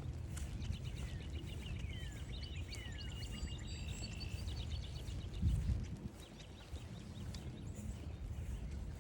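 Wind rumbling on the microphone, with a songbird singing a fast trilled song with quick falling notes through the first half. A louder low bump comes about five and a half seconds in.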